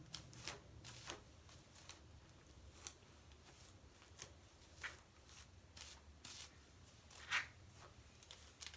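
Faint, irregular swishes and clicks of a detangler brush being pulled through wet, conditioned, tangled curly hair, one stroke at a time, with a louder stroke near the end.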